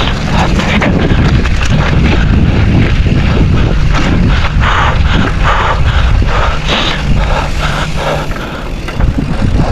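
Mountain bike riding fast over a rough dirt trail: wind buffets the microphone in a heavy rumble while the tyres and bike clatter and rattle over the bumps in quick, irregular knocks.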